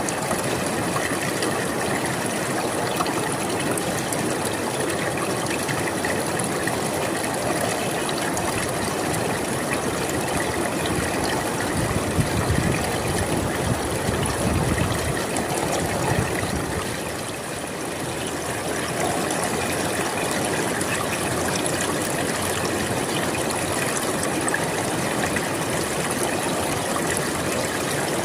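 River water flowing steadily. About halfway through the flow grows heavier and deeper for a few seconds, then eases slightly before settling back.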